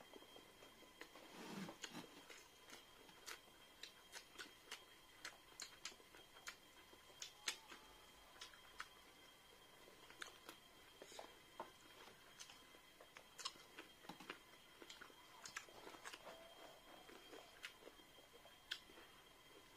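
Mouth sounds of eating: chewing and lip-smacking as rice and chicken curry are eaten by hand, heard as a run of soft, irregular clicks.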